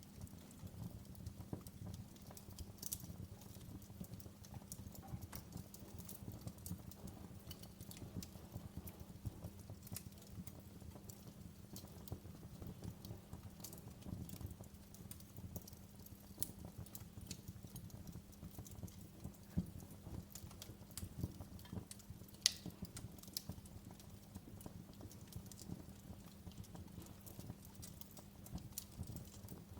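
Wood fire in a fireplace crackling: an irregular run of small pops and ticks over a low rumble, with a couple of sharper pops about two-thirds and three-quarters of the way through.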